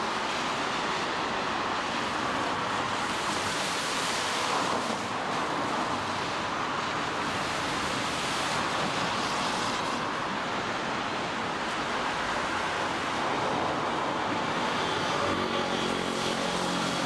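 Steady rain with car tyres hissing past on a wet road. Near the end a low, steady engine hum joins in.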